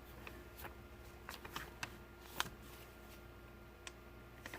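Faint rustles and light clicks of paper pages being handled and turned in a handmade journal: a handful of short, crisp sounds, the loudest about two and a half seconds in.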